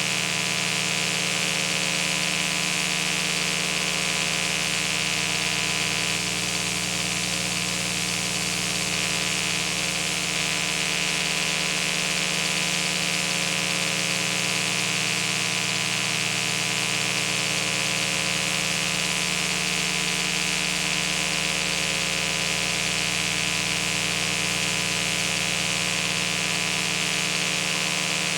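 Steady electrical hum with many fixed overtones over an even hiss, unchanging throughout.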